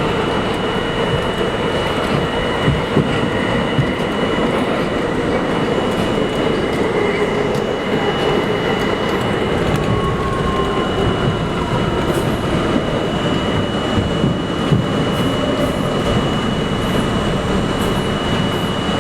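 New York City subway train running along the track: a steady, loud rumble and rattle of wheels on rails, with a thin steady high whine over it and a few brief knocks.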